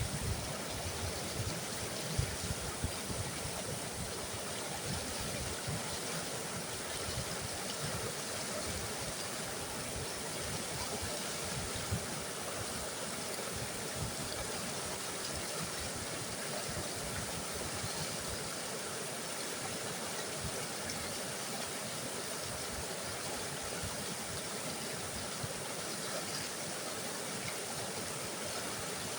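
Mountain river rushing, a steady wash of water noise, with a few low bumps in the first few seconds.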